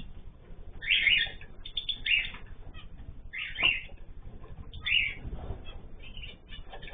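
Small pet cage birds chirping in four short bursts about a second apart, with soft fluttering of wings.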